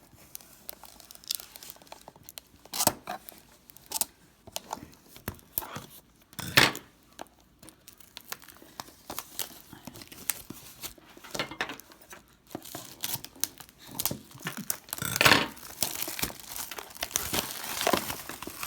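Packaging being cut open and torn, with irregular crinkling, crackling and sharp snips as a sealed subscription box is unpacked.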